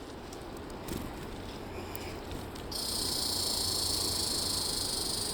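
Red squirrel chattering: a continuous high, buzzing trill that starts about three seconds in and holds steady, over faint rustling.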